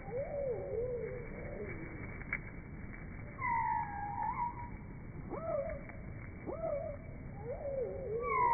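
Songbird chirps slowed down eight times, so they come out as deep, drawn-out calls: a wavering call at the start and another near the end, a long falling swoop about three and a half seconds in, and two short upward hooks around five and six and a half seconds.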